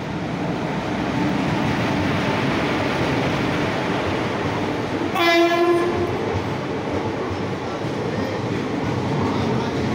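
Indian Railways passenger train arriving, its coaches rolling past close by with a steady rumble and wheel clatter. About five seconds in, the train horn gives one short blast.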